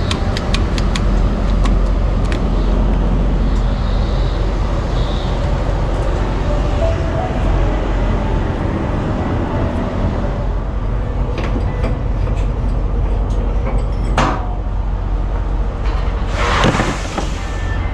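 Semi-truck diesel engine running with a steady low rumble, heard from the cab. There are light clicks in the first couple of seconds, a short noise at about fourteen seconds in and a louder burst of noise lasting about a second near the end.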